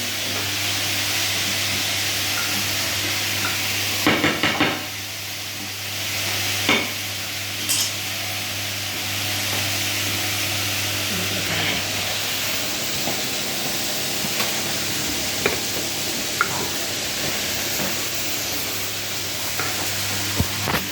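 Whirlpool washing machine running, with a steady low hum and a continuous hiss of water and air. A short run of rattling clicks comes about four seconds in, and a few single knocks and ticks follow.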